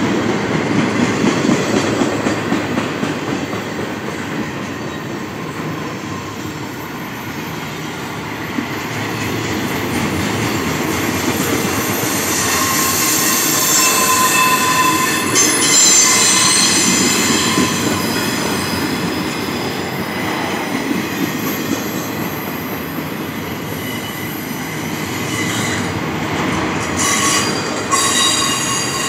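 Freight train rolling along steel rails with a steady rumble of wheels. High wheel squeal rings over it around the middle and again near the end.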